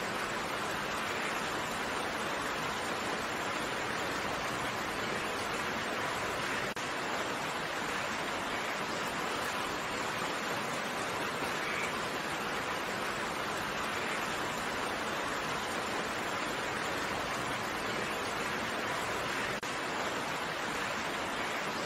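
Steady rain: an even hiss of many raindrops, with no single drops, thunder or other events standing out.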